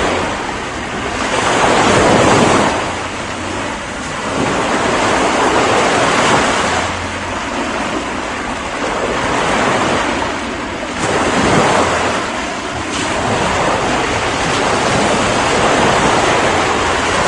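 Ocean surf: a continuous rush of waves that swells and eases every few seconds as each wave breaks and washes in.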